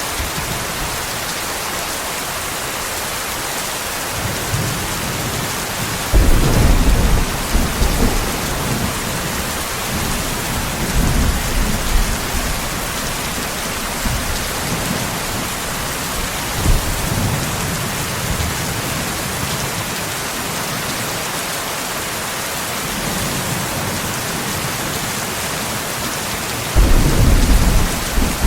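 Steady heavy rain hiss with rolls of thunder rumbling through it: a long roll from about four seconds in that peaks near six seconds, smaller rumbles around eleven and seventeen seconds, and a loud clap-like roll near the end.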